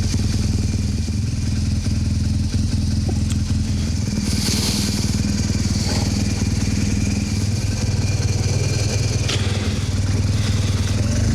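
BMW R 1200 GS boxer-twin motorcycle engine idling steadily, with a brief hiss about four seconds in.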